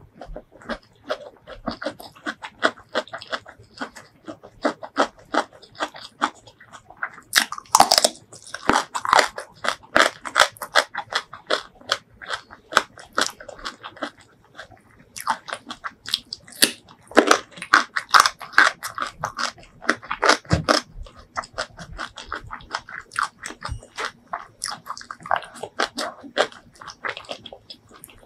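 Close-miked eating: steady chewing of a hand-fed mouthful of rice and spicy shrimp salad, full of sharp crunches and wet mouth clicks, with several louder stretches of crunching.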